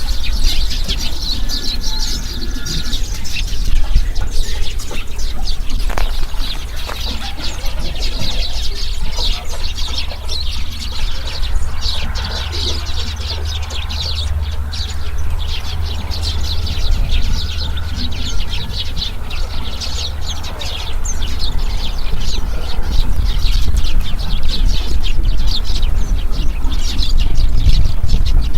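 Many small birds chirping continuously in a dense chorus, over a steady low rumble.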